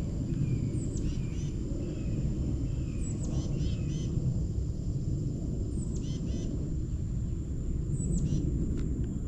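A songbird repeats a short high phrase four times, about every two and a half seconds: a sharp falling note followed by a quick run of lower notes. A steady low rumble is louder than the bird, and a thin steady high tone sounds throughout.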